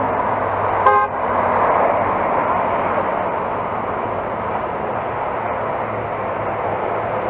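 Steady wind and engine noise of a motorcycle on the move, with one short horn toot about a second in.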